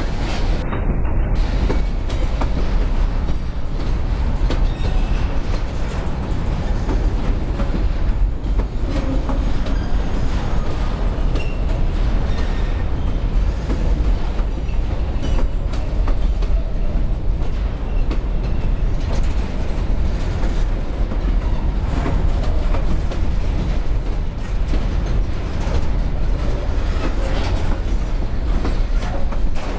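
Empty freight hopper cars rolling past, steel wheels clattering over the rail joints with a steady rumble.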